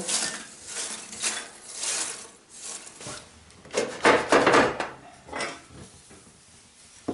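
Scraping and rubbing as ash is cleared out of a wood-burning fireplace: several separate scrapes, the loudest about four seconds in, then quieter near the end.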